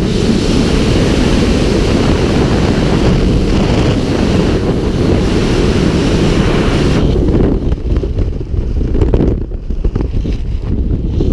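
Heavy wind buffeting the microphone, a loud steady low rumble with hiss above it; about seven seconds in the hiss thins out and the rumble turns gusty and uneven.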